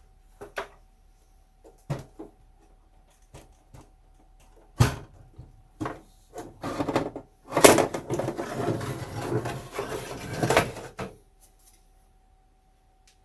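Handling of the opened HP 3458A multimeter: scattered clicks and a single sharp knock about five seconds in, then about three seconds of rattling as loose bits move around inside the case.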